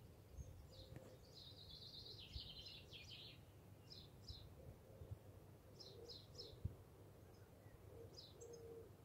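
Faint bird chirps in the background: short high notes in groups of two or three, with a longer twittering run about two seconds in, over a low steady room rumble.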